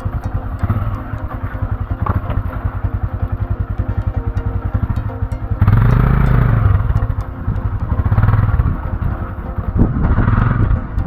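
Motorcycle engine running at low revs with an even, fast firing beat, then growing louder in three surges from about halfway as the throttle is opened.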